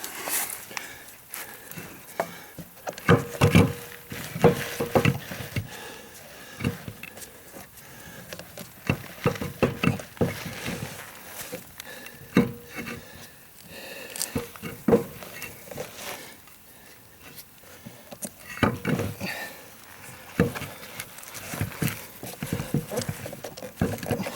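Irregular knocks and clatter of hand work on the wagon's wheel and running gear, scattered strikes of varying loudness with short pauses.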